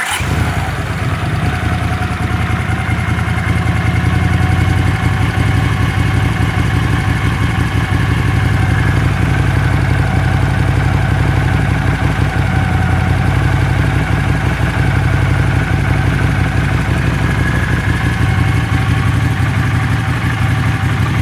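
Honda CX500 V-twin motorcycle engine catching suddenly and then idling steadily, warm and off the choke, with its idle screw set to about 1,000 rpm. The freshly cleaned carburettors are bench-synced only; the engine holding a steady idle shows the old failure to idle without choke is cured.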